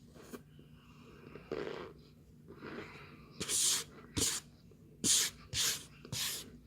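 Close-up crunching of packed tapioca starch chunks being bitten and chewed: about five short, hissy crunches in the second half, with quieter chewing before them.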